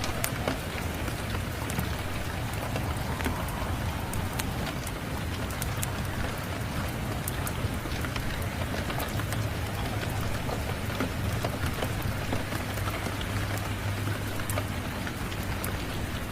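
Steady heavy rain falling, with many scattered sharp crackles of a wood fire and a low, even rumble underneath.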